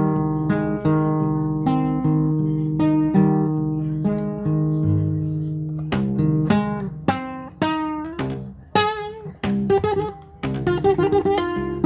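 Guitar music: a plucked guitar melody over held low notes. Around the middle it becomes single notes with wavering, bent pitch, then quickens into a faster run of notes near the end.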